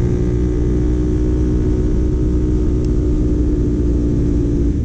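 CFMoto 450 motorcycle's parallel-twin engine running at steady cruising revs through a Yoshimura AT2 slip-on replica exhaust, heard over a low rush of wind through a helmet intercom microphone.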